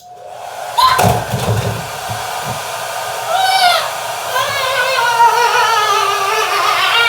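Handheld hair dryer switched on and blowing steadily, with a sharp knock about a second in. A voice sings over it from about three seconds in.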